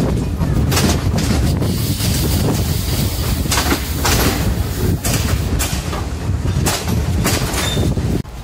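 Railway coach wheels running on the track with a steady low rumble, clacking sharply over rail joints several times at uneven spacing. Near the end the sound drops off suddenly.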